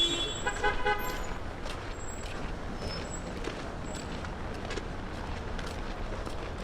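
Strong wind buffeting an unprotected microphone: a steady low rumble with a hiss of blown snow over city traffic. About half a second in, a short flat toot, like a car horn, sounds briefly.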